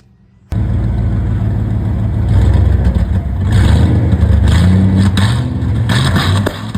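A 1992 Ford F-150's 5.0 V8 running loud, cutting in abruptly and revved up and down in the middle. It is on a temporary exhaust and has an exhaust leak.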